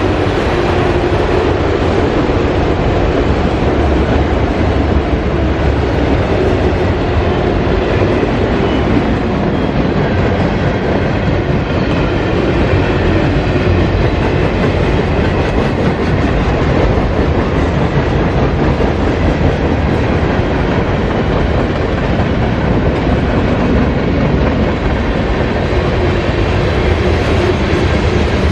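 Cars of a mixed freight train rolling past close by: a loud, steady rumble with a constant clatter of wheels over the rails.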